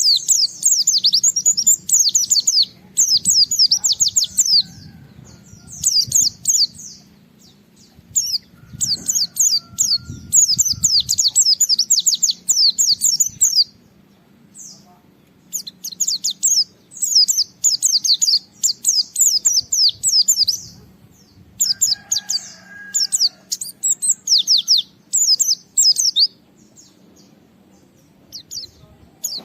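A white-eye (pleci) singing hard and fast: long phrases of rapid, very high chirping notes, each a quick downward sweep, broken by pauses of a second or two, the challenging song of a bird calling out a rival.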